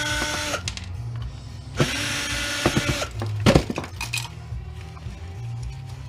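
A power drill running in two short bursts of about a second each, with a steady whine, then a few sharp metallic clicks and knocks of parts being handled. Background music plays underneath.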